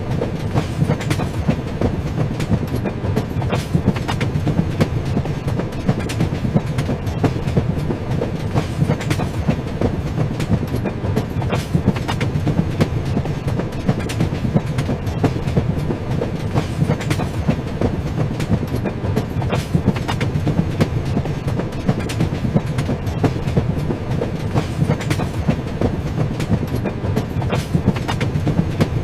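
Train running along the rails: a steady low rumble with frequent sharp clicks and clacks from the wheels over the track.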